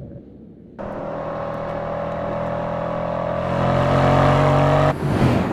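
Mercedes-AMG C 63 S Coupe's 4.0-litre twin-turbo V8 accelerating. Its note comes in abruptly about a second in, then rises in pitch and grows louder before cutting off near the end.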